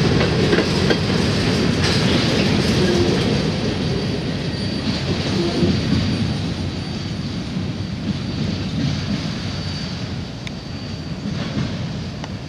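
Freight train's covered hopper cars rolling past, steel wheels rumbling and clacking over rail joints; as the last car clears, the rumble fades steadily as the train moves away.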